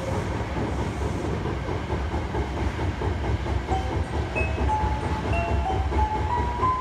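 Hankyu 1300 series commuter train heard from inside the car: a steady rumble of wheels on rail with some clickety-clack. From about four seconds in, the Toyo Denki IGBT VVVF inverter drive adds a whine of short steady tones that step upward in pitch, as the train brakes toward its terminal stop.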